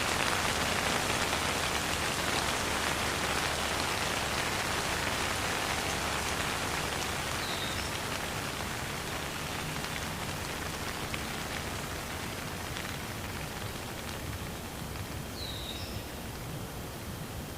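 Steady rain falling, an even patter that eases slightly toward the end. Two short high chirps come through it, about halfway through and again near the end.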